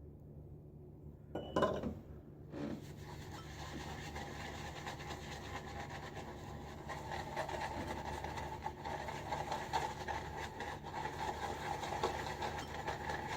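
Boar-bristle shaving brush swirling soft shaving soap and water around a bowl to build lather, a steady scratchy swishing full of small ticks that slowly grows louder. A couple of brief sounds come just before it starts, about two seconds in.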